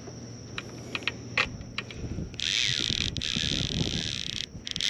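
Fishing reel drag buzzing as a hooked redfish pulls line, a few scattered clicks first and then a steady high buzz for about two seconds that breaks off near the end and starts again, over wind and water rumble.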